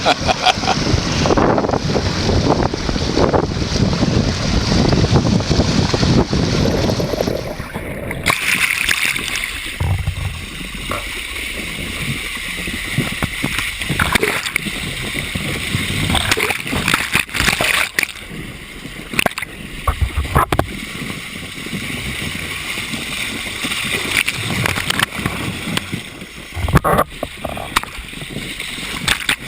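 Whirlpool water churning and splashing around a person wading in it. The sound changes abruptly about eight seconds in.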